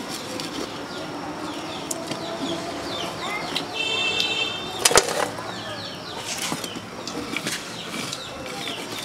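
Small birds chirping and twittering repeatedly, with a single sharp click about five seconds in.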